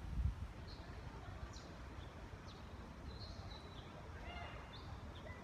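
Scattered short, high bird chirps over a faint low outdoor rumble, with a low bump right at the start.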